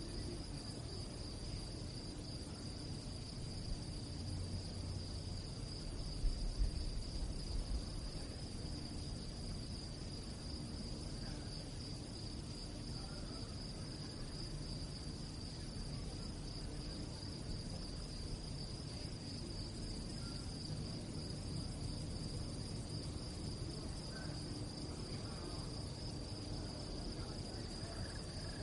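Crickets chirping in a continuous, fast-pulsing high trill over a low background rumble, with a brief low thumping about six seconds in.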